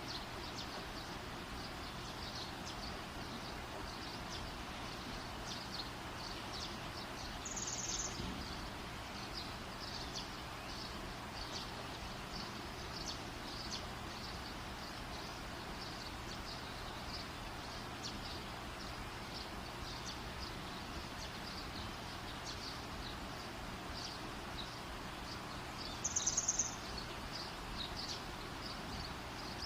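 Campfire burning with a steady hiss and a constant scatter of small crackles. Twice, about eight seconds in and near the end, a brief high-pitched chirping trill sounds over it.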